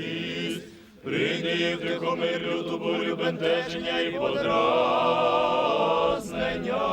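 A choir singing a slow liturgical chant in Ukrainian, with a short break between phrases about a second in.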